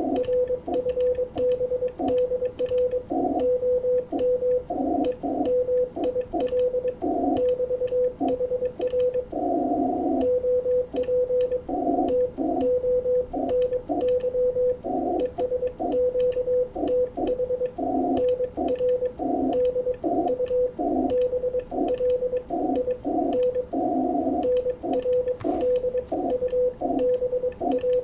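Morse code (CW) from an amateur radio transceiver on the 20-metre band: a steady tone of about 500 Hz keyed in rapid dots and dashes, heard over a narrow band of receiver hiss, with faint clicks alongside the keying.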